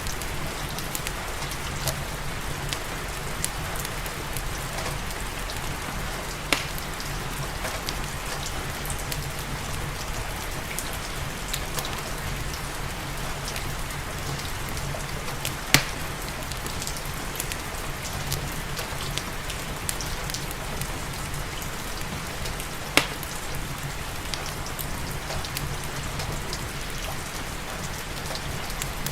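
Steady rain together with a crackling wood fire. A few sharp pops stand out over the rain, the loudest about halfway through and again about three quarters of the way in.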